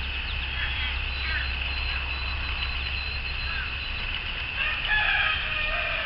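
Birds chirping in short scattered notes over a steady high-pitched drone, with a louder, longer call about five seconds in.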